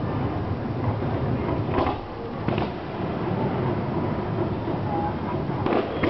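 Fireworks bursting: a continuous low rumble of booms, with sharper cracks about two seconds in, at two and a half seconds, and near the end.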